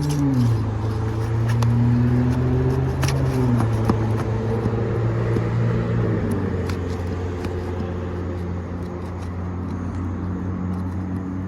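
An engine running steadily nearby, its pitch stepping down a few times, with a few light clicks over it.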